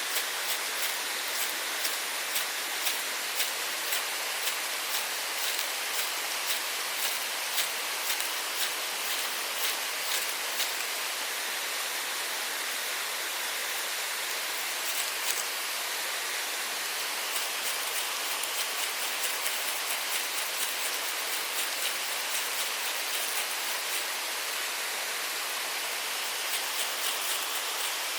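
Steady hiss of flowing water from a mountain stream. Over it comes a run of light, sharp clicks at about two a second for the first ten seconds or so, which return in the middle and again near the end.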